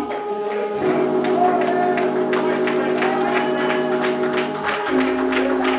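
Church music after the sermon's climax: sustained organ-like chords over a fast, steady beat of percussion, with the chord changing about a second in and again near the end.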